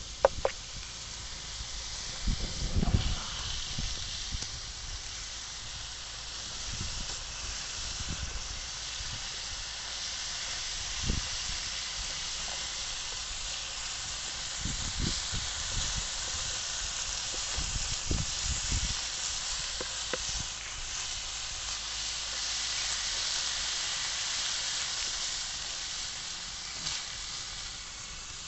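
Chicken sizzling in a pan of garlic sauce that has cooked down almost dry, a steady frying hiss with a few low knocks against the pan now and then.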